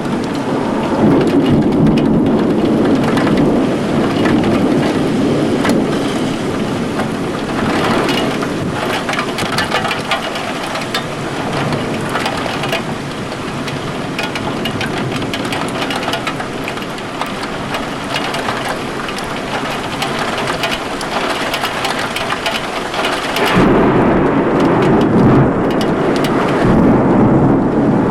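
Heavy thunderstorm rain pelting down steadily, with rolling thunder rumbling at the start and a strong new rumble setting in suddenly near the end.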